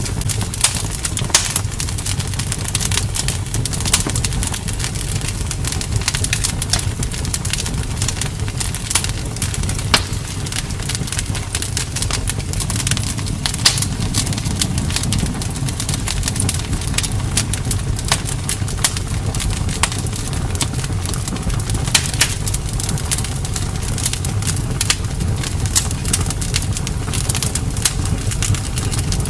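Bonfire crackling: frequent irregular sharp pops and snaps over a steady low rumble of the burning fire.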